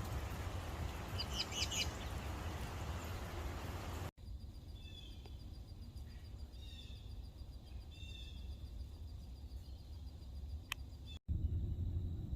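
Birds calling over a steady low outdoor rumble: a short burst of chirps about a second and a half in, then a run of short calls between about five and nine seconds in.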